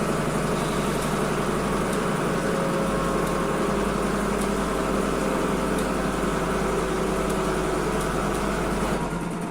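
Washing machine running steadily, a motor hum with a few steady tones over a low drone. Near the end the sound drops and thins, and a slowly falling whine begins.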